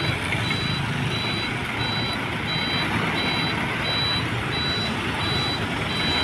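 Hino Dutro dump truck's reversing alarm beeping steadily, about one and a half beeps a second, over its diesel engine running as the truck backs up.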